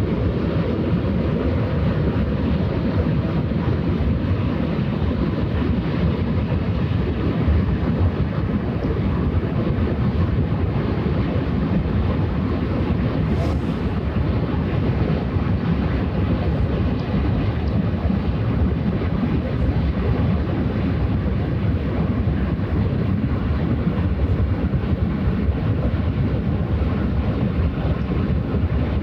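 A steady low rumble of wind buffeting the microphone, mixed with the drone of passing cargo ships' and barges' engines on the waterway.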